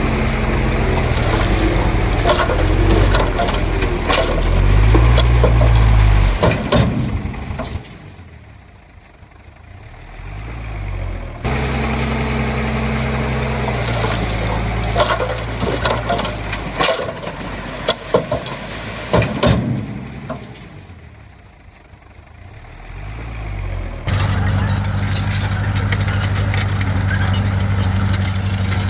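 Heavy diesel earthmoving machinery running, the engine pitch rising and falling under load, with scattered metallic clanks. The sound fades away twice and each time comes back abruptly at a new, steadier engine note.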